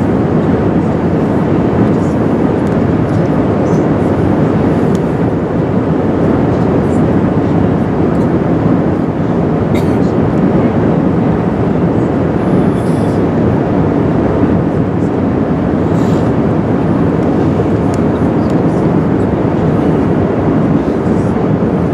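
Steady rushing cabin noise of an Airbus A380 on final approach, from airflow over the airframe and the extended landing gear and flaps, with the engines running at low approach power.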